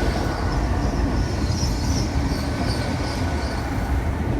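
Great Western Railway Class 802 bi-mode train running into the platform: a steady rumble of the train, with a faint high squeal from the wheels or brakes.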